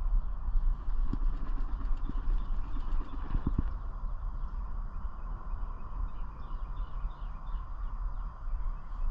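Steady low rumble with a few soft knocks, the loudest pair about three and a half seconds in.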